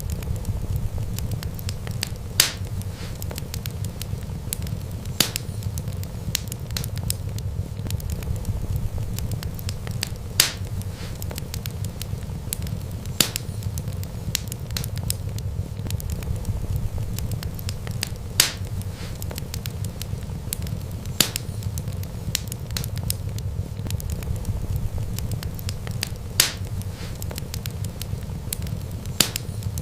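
Wood fire burning with a steady low rumble and continuous fine crackling, and a sharp pop from the burning wood every few seconds.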